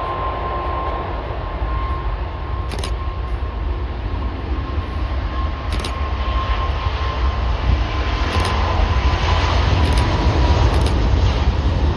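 Jet engines of an Airbus A380 at takeoff thrust: a deep rumble and hiss with a steady whine in the middle, growing louder throughout.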